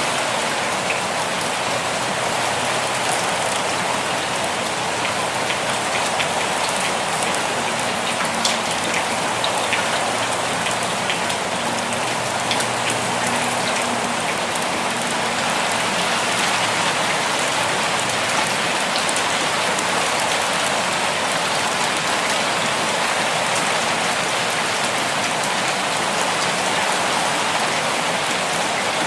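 Steady rainfall, a dense, even hiss of drops with scattered individual drop ticks.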